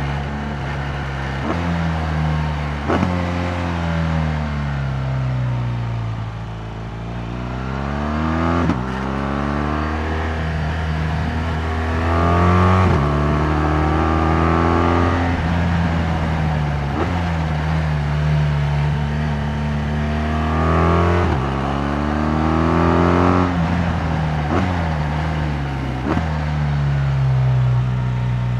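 BMW R 1200 GS Adventure's 1170 cc liquid-cooled flat-twin boxer engine, heard on board while riding. The engine note rises in pitch as the bike accelerates, then drops sharply at each gear change, which comes with a click. Between these pulls there are stretches where the pitch falls as the bike slows.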